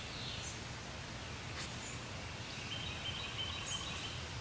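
Outdoor ambience: steady low background noise with birds chirping, and a longer stepped bird trill through the second half.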